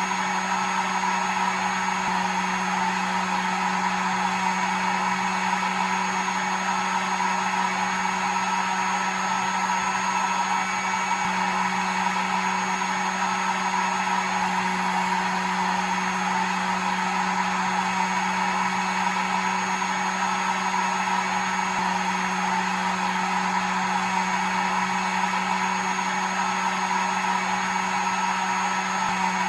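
Hair dryer running steadily: an even motor whine and fan rush with a low hum, unchanging throughout.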